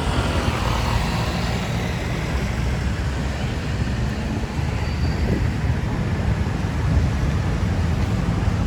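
Steady low rumble of city street traffic, heard from a bicycle on the road, without any single loud event.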